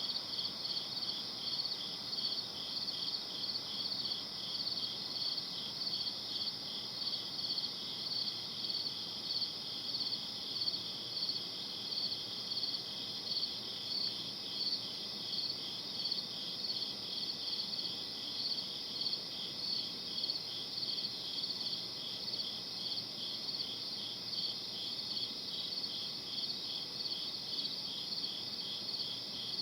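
Crickets chirping in a steady night chorus, a dense run of even, high-pitched pulsing chirps over a soft background hiss.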